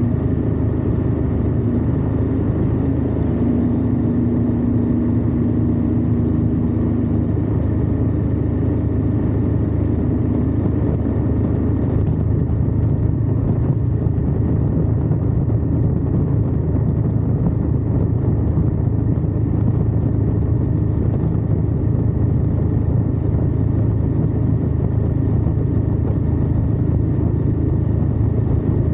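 Indian Scout's V-twin engine running at a steady cruise on the road, heard up close from a camera on the lower crash bar, with wind and road noise. A light hiss in the upper range fades about twelve seconds in.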